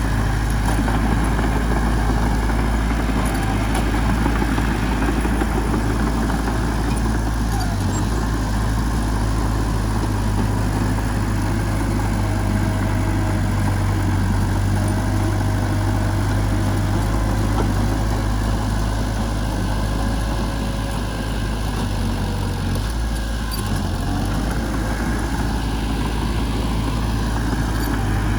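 Heavy diesel engine of a working machine running steadily with a deep low rumble, easing slightly about three-quarters of the way through.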